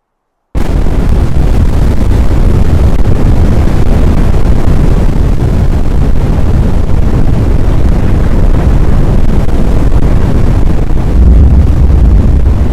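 Strong wind buffeting the microphone in a loud, steady, low rumble that cuts in after a brief dropout about half a second in.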